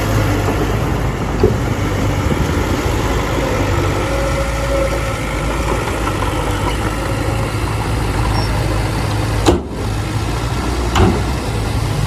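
A heavy machine's diesel engine running steadily with a low drone, with a couple of short sharp clicks or knocks near the end.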